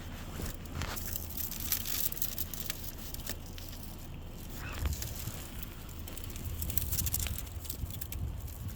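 Storm ice being cracked and crushed by hand: an irregular run of small, sharp cracks and crackles.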